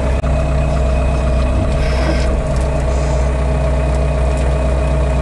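Engine of a heavy machine running steadily at an even speed, with a constant low hum and no revving.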